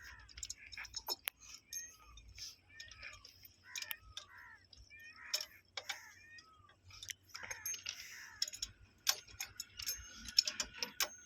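Scattered sharp metallic clicks and taps of hand tools and fittings while a railway point machine is being fitted, with faint voices in the background.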